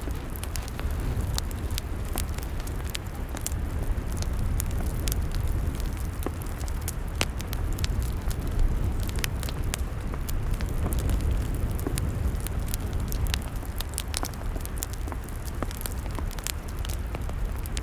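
Log fire crackling: many sharp pops and snaps scattered over a steady low rumble of burning.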